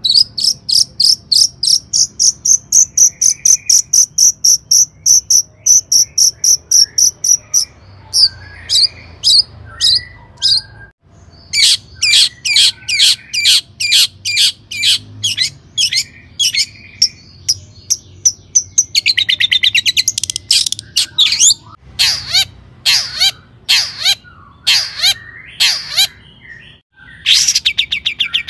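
Long-tailed shrike singing loudly: fast runs of sharp, high repeated notes several a second, broken by short pauses, with rapid buzzy trills about two-thirds of the way through and again near the end.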